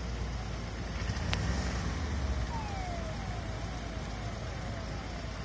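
Low, steady rumble of an idling vehicle engine, with a sharp click about a second in. From about halfway there is a run of six short falling whistles, roughly two a second.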